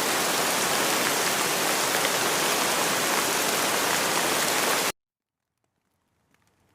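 Steady rain falling, an even hiss that cuts off suddenly about five seconds in. After about a second of near silence, faint scattered patter starts to come back near the end.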